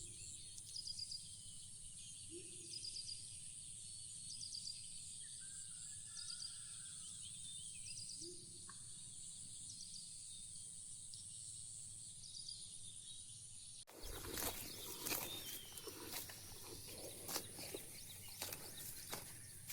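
Rural outdoor ambience: a steady high-pitched insect drone with repeated short bird chirps over it. About fourteen seconds in, the sound cuts to a noisier stretch of scattered clicks and knocks.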